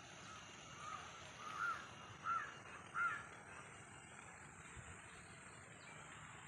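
A bird calling four times in quick succession, a little under a second apart, starting about a second in, over a faint steady outdoor background.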